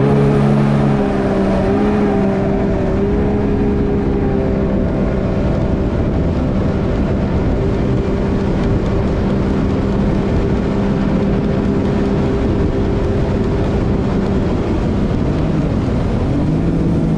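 Jet ski engine running at a steady cruising throttle under way, with a rush of noise beneath it. Near the end the engine note drops and climbs again as the throttle is eased off and reopened.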